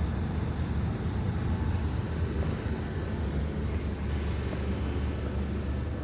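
Street traffic: a steady low rumble of vehicles, with the higher hiss of a passing vehicle thinning out about four or five seconds in.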